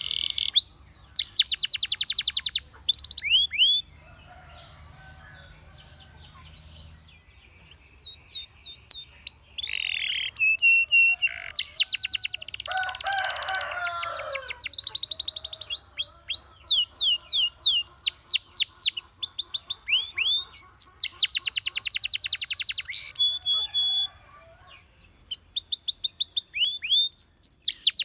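Domestic canary singing: fast trills of repeated downward-sweeping notes and rapid rolls, high-pitched. The song breaks off for a few quieter seconds about four seconds in and briefly again near the end.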